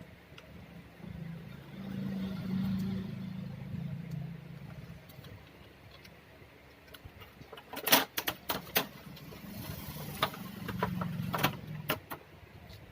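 Sharp clicks and knocks of monitor parts being handled and fitted back together, most of them in the second half, with a low hum twice.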